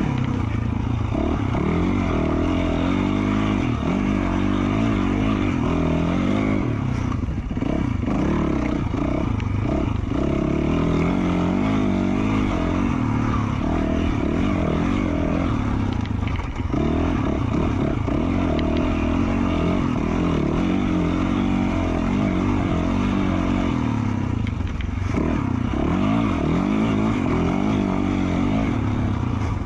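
2020 Yamaha YZ450F's single-cylinder four-stroke engine, through an FMF Q4 slip-on exhaust, revving up and down continuously as the throttle is worked, with several brief drops where the rider rolls off.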